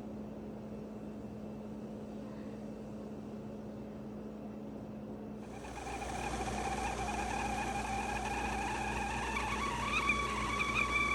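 A steady low hum, then about halfway through a Revereware tea kettle's whistle starts up. Steam rushes through the spout whistle, with thin whistle tones that rise slowly in pitch and grow louder. This shows the repaired whistle cap working again.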